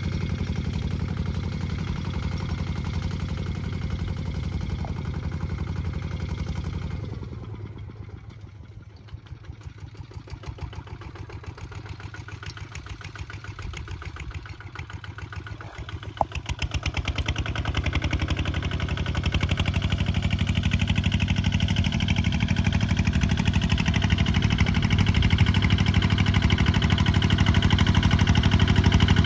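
Kubota ZT 155 DI single-cylinder diesel engine running under load, then easing down about a quarter of the way in to a slower, quieter idle where the separate firing strokes can be heard, and picking back up to full running a little past the middle, with a single click as it does.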